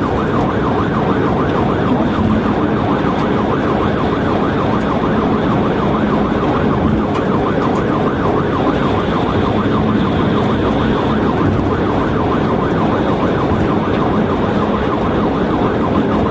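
Police cruiser siren in a fast yelp, rising and falling many times a second, over steady engine and road noise from a car at highway speed.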